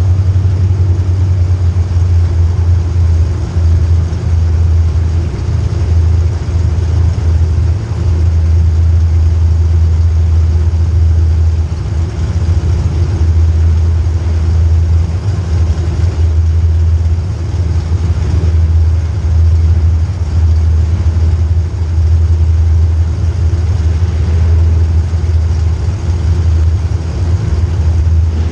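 A vehicle engine running with a loud, steady low drone, dipping briefly now and then.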